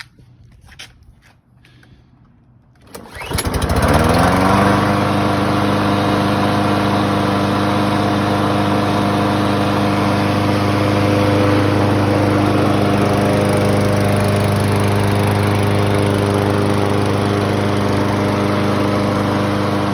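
Kohler XT675 single-cylinder engine on a Craftsman push mower starting after a few faint clicks: it catches about three seconds in, revs up within a second and then runs steadily at speed.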